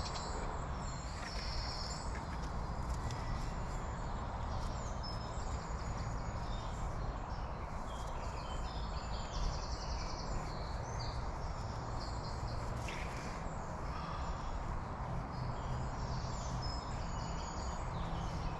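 Songbirds singing in woodland: many short high chirps and trills throughout, over a steady low background noise.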